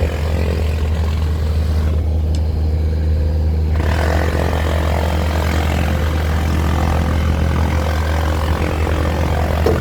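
An engine running steadily at a constant speed, giving a strong, even low hum, with a higher hiss over it that drops out for a couple of seconds about two seconds in and then resumes.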